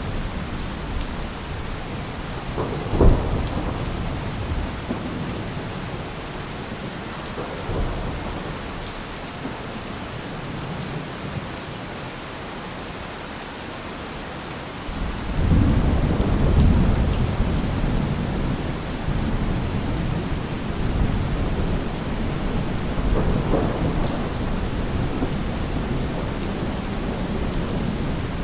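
Steady heavy rain with thunder: a sharp lightning crack about three seconds in, a fainter rumble a few seconds later, then a long deep thunder roll starting about halfway through that slowly fades but carries on under the rain.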